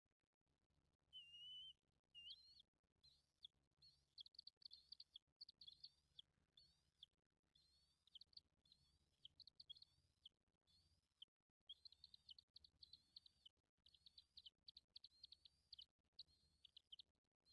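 Faint, rapid series of high, thin bird chirps repeating several times a second, with short breaks now and then.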